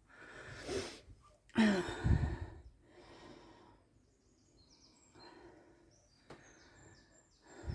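A person's breathy sigh about two seconds in, among quiet handling and movement noise; faint, short, high chirps near the end.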